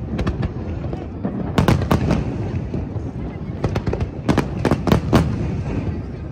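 Aerial fireworks bursting in a dense finale barrage: clusters of sharp bangs and cracks, several a second in bursts, over a continuous low rumble of booms.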